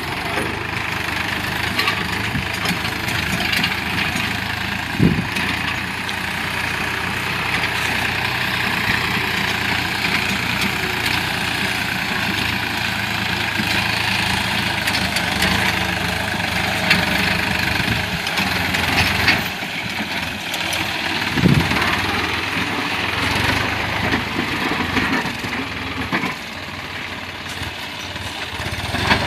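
New Holland 49 hp, 2700 cc tractor's diesel engine running steadily while it pulls a six-disc plow, with two sharp knocks about five seconds in and past the twenty-second mark.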